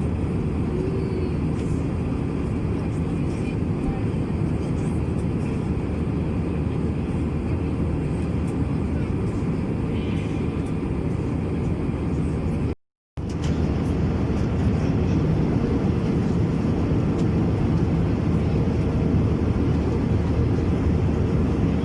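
Steady low roar of an Airbus A321-200's engines and airflow, heard from inside the passenger cabin, broken by a split-second gap of silence about 13 seconds in and a little louder after it.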